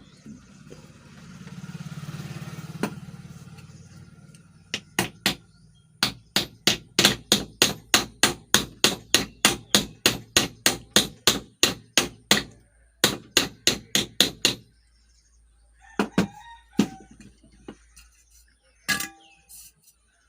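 A new 6202 ball bearing being driven into the housing of a ceiling fan's cover by a steady run of sharp metal taps, about three a second for some ten seconds, then a few separate taps as it seats.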